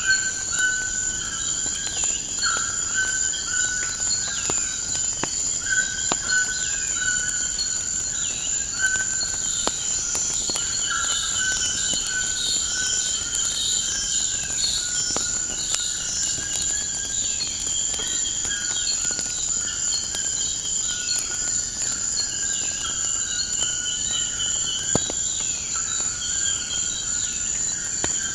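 Nature ambience: a steady high-pitched insect trill like crickets, with birds calling over it in short repeated notes and downward-sliding chirps, and scattered sharp pops of a crackling wood fire.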